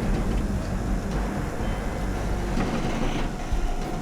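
Heavy diesel truck engine running steadily with a low rumble.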